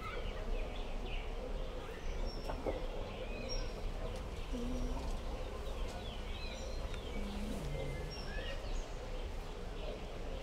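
Birds chirping in short, scattered calls over a steady background of hiss and low rumble. A few short low notes come about halfway through.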